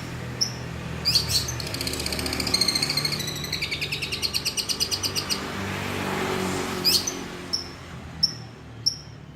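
Long-tailed shrike (cendet) singing in lovebird-like song: short sharp high chirps, then a rapid chattering trill of about ten notes a second lasting several seconds, then more single chirps spaced about half a second apart.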